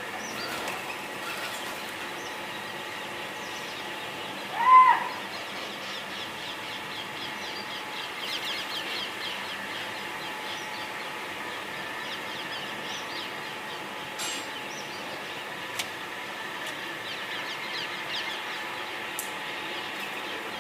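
Many small birds chirping continuously over a steady background. About five seconds in, one loud, short call rises and falls in pitch.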